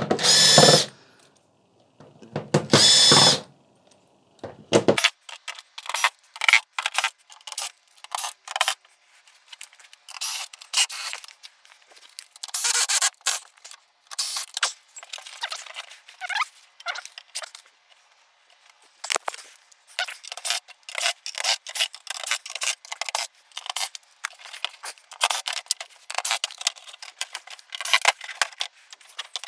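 Cordless drill-driver whining in two short bursts, about a second long each, as screws are backed out of a TV's rear panel. It is followed by a long irregular run of light clicks and taps.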